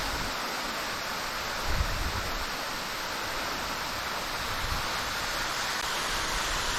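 Waterfall pouring, a steady, even rushing of falling water. Brief low rumbles come twice, about two seconds in and near the middle.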